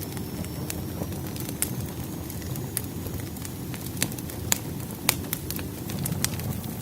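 Wood fire crackling: a steady low rush of burning logs with sharp, irregular pops and snaps, the loudest a little past the middle.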